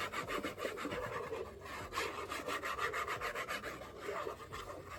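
Paper being rubbed in quick, continuous strokes as it is glued down onto cardstock.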